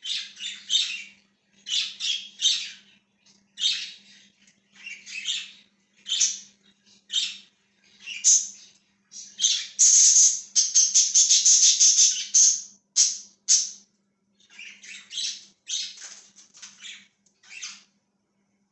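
Budgerigars chirping and squawking in short, rapid calls, with a louder stretch of continuous chatter from about ten to twelve and a half seconds in. A faint steady low hum runs underneath.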